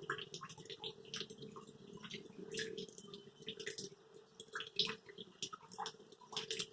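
Light rain dripping, with separate drops landing irregularly several times a second over a faint steady hum.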